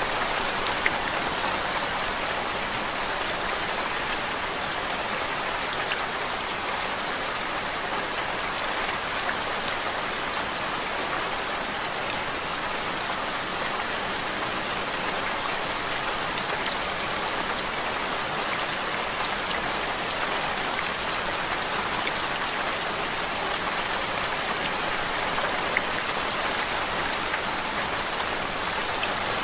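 Steady rain falling on a surface: an even hiss with faint, scattered drop ticks.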